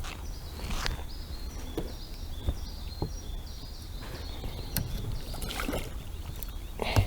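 Taut fishing line whistling in a string of short high notes as a hooked carp pulls against a fixed-line herabuna rod bent into a semicircle. A low rumble runs underneath, with a sharp knock near the end.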